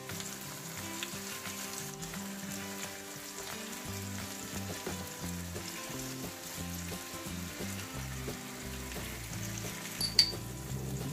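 Diced peppers and tomato slices sizzling in oil in a frying pan, with background music playing softly. One sharp clink near the end.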